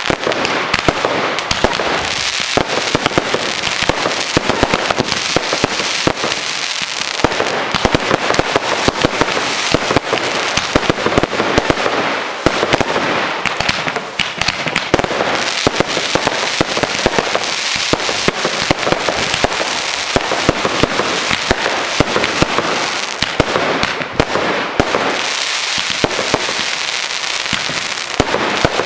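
Aerial fireworks bursting in a continuous barrage: many sharp bangs and cracks a second over a steady fizzing noise, without a break.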